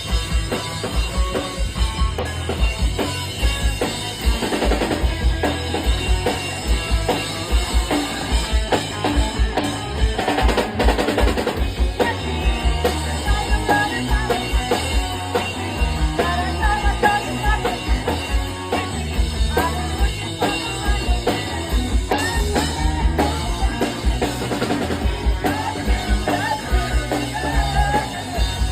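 Live rock band playing an instrumental stretch without vocals: a fast, steady drum kit beat with kick and snare drums under guitar and bass.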